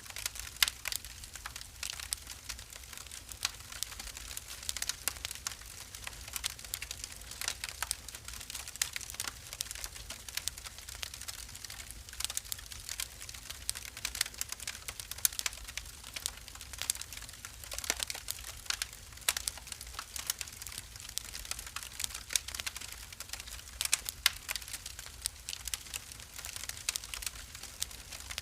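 Wood fire burning in a fireplace, with dense, irregular crackling and popping over a faint low rumble.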